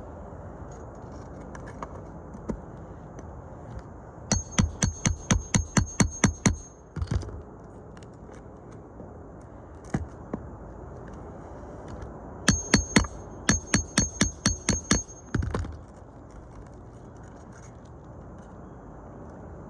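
Quick series of hammer blows, about four a second, in two runs of roughly ten strikes each, with a single knock between them, typical of nailing down roofing shingles during a repair.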